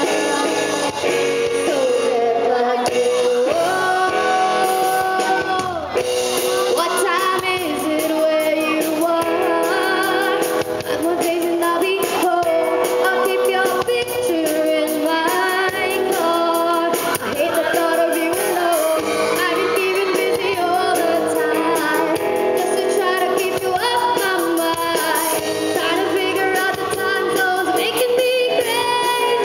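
Live amateur rock band performing a song: singing over a full band of guitars, bass, drums and piano.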